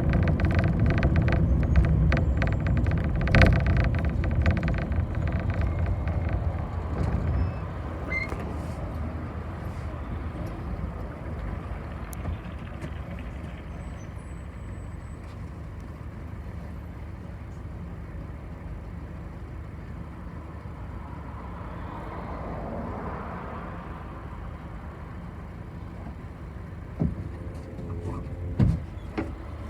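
A bus heard from inside as a passenger rides. Its engine runs loud and steady for the first several seconds, then drops to a quieter low running noise. A soft hiss comes in past the middle and a few sharp knocks near the end.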